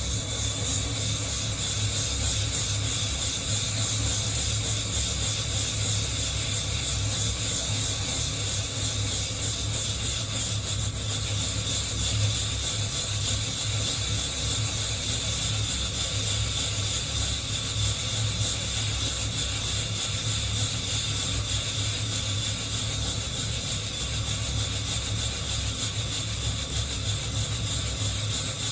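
Coffee beans rattling and rubbing against the wire mesh of a hand-held roasting net as it is shaken without pause.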